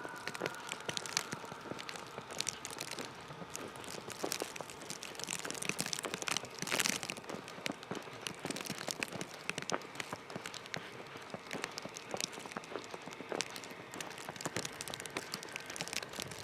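Footsteps crunching on snow: a dense, irregular crackle of packed snow underfoot.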